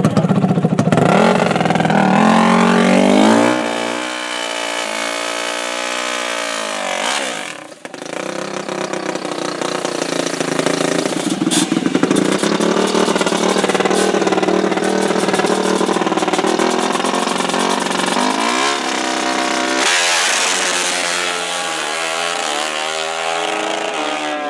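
Racing ATV engines revving hard, their pitch climbing and falling through the gears. The sound drops sharply about eight seconds in, then runs fairly steady and climbs again near the end.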